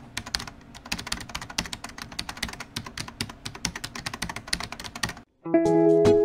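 Rapid, irregular clicking, like fast typing on a keyboard, which stops about five seconds in; a moment later plucked-string music begins.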